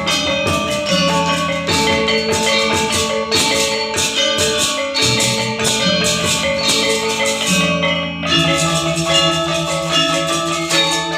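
Balinese gamelan gong ensemble playing: many bronze metallophones struck in fast, dense rhythmic patterns over sustained low tones that shift every second or two.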